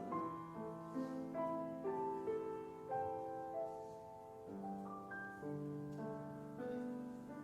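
Piano playing a soft, slow passage, single notes and chords struck about twice a second and left to fade.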